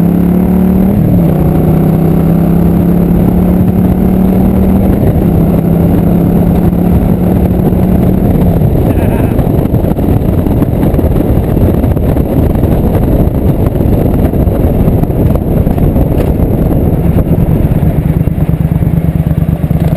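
Motorcycle engine pulling hard from a stop to about 70 mph, with gear changes about a second in and again around five and eight seconds. After that a loud rush of wind on the microphone covers most of the engine sound, and a steady engine note comes back through near the end.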